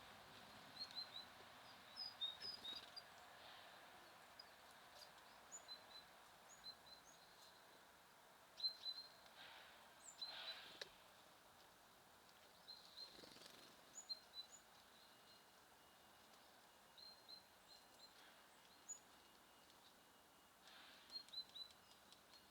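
Small songbirds giving faint, short, high chirps and call notes, scattered throughout over a low steady hiss.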